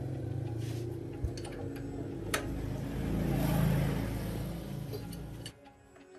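A machine running steadily with a low hum, with two sharp clicks in the first half; it cuts off suddenly about five and a half seconds in.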